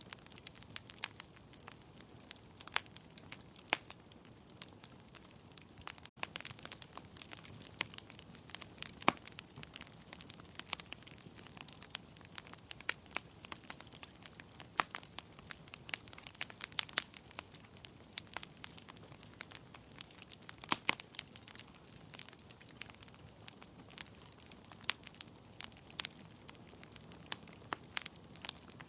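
Wood logs burning in a fireplace, crackling with irregular sharp pops and snaps over a soft steady hiss of flame. There is a split-second dropout about six seconds in.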